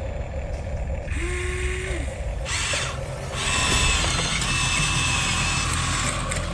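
Small electric motors and gears of a radio-controlled construction model whining in short runs. The whine starts and stops, a low one about a second in and a higher one in the second half.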